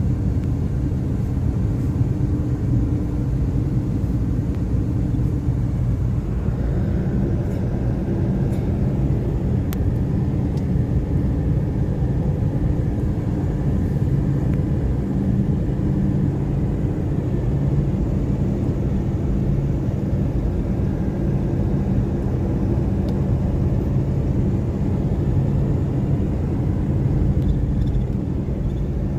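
Steady engine and road rumble heard inside a moving vehicle, a constant low drone with faint steady engine tones.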